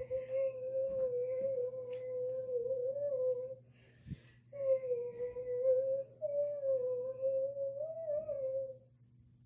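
A girl's voice singing two long held notes on one slightly wavering pitch, the first about three and a half seconds long, the second, after a short break around four seconds in, about four seconds long.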